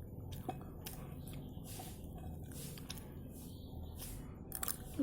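A person chewing a mouthful of food, faint soft wet mouth sounds repeating at irregular intervals, with a few light clicks.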